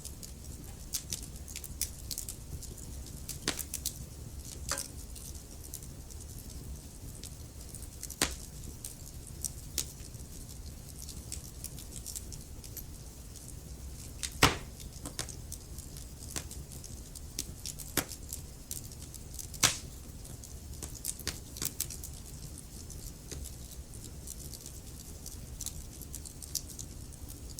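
Wood fire crackling in a fireplace: irregular sharp snaps and pops over a low steady rumble of the flames, with two louder pops about halfway through and again a few seconds later.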